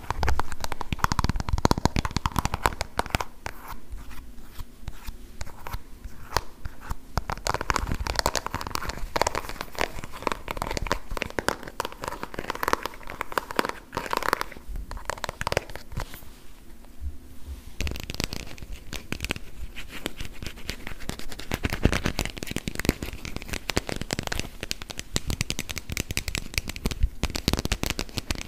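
Fingers tapping rapidly on plastic food items, with crinkly, scratchy plastic sounds among the taps. There is a short lull past the middle.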